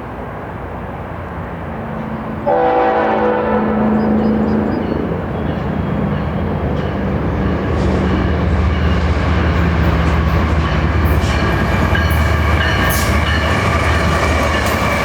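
Diesel freight locomotives approaching with a low engine rumble that grows louder. About two and a half seconds in, the air horn sounds suddenly for about two seconds. Near the end, wheel clicks and a high steady ringing tone come in as the train draws close.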